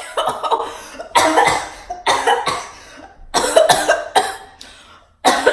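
A girl coughing in a fit of about five harsh coughs in quick succession.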